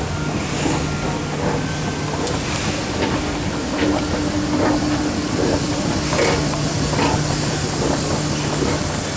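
Steady vehicle running noise: an even rush with a low steady hum under it and scattered light clicks and knocks.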